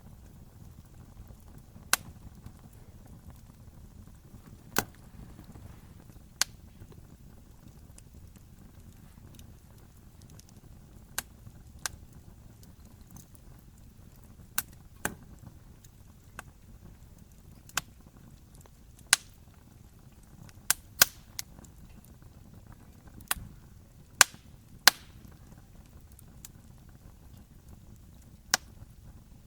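Campfire burning: wood crackling and popping in sharp, irregular snaps, over a low steady rumble of the fire.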